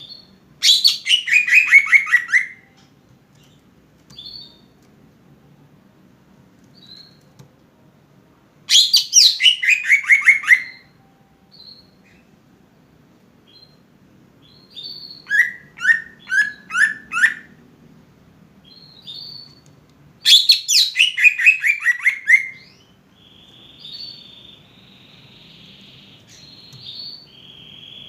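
Greater green leafbird (cucak ijo) singing. Three loud, rapid trills each fall in pitch over about two seconds, with soft short calls between them. Midway there is a run of about five separate notes, and near the end a buzzy rasping note.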